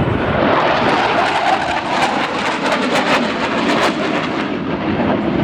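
Panavia Tornado GR4's twin RB199 turbofans roaring in a hard break-off pass: a loud, rough jet roar with sharp crackling through the middle seconds, easing slightly near the end.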